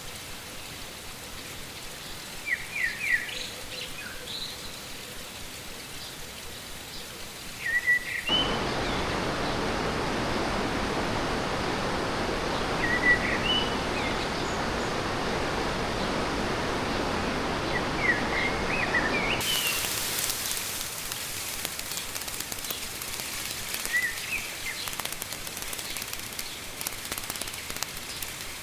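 Small birds chirping over the steady rush of a fast-flowing stream. About eight seconds in, the rushing abruptly becomes louder and fuller, then drops back just as suddenly about eleven seconds later.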